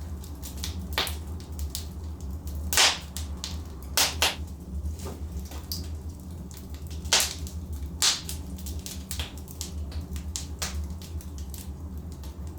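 Wood fire in a fireplace crackling, with irregular sharp pops from the burning logs over a steady low rumble of the flames. The loudest pops come about three, four, seven and eight seconds in.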